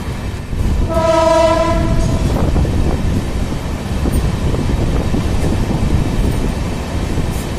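Passenger express train running through a station at speed, a steady rumble of coaches on the track, with one train horn blast about a second in, lasting about a second.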